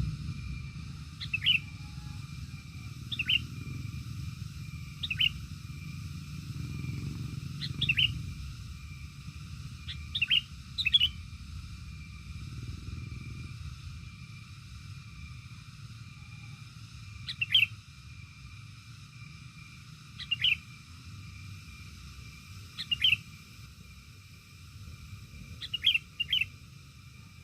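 A bird giving short, sharp, downward-sweeping chirps, singly or in quick pairs, every two to three seconds, over a low rumble that fades about halfway through.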